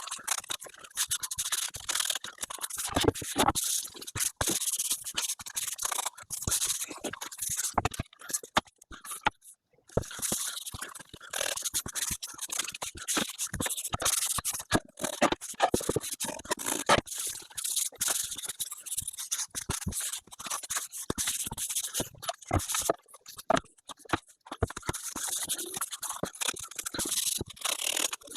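Sped-up workshop sound of boiled linseed oil finish being worked onto pine bookcase parts: a fast, choppy run of rubbing and scraping on wood, broken by short knocks and brief gaps.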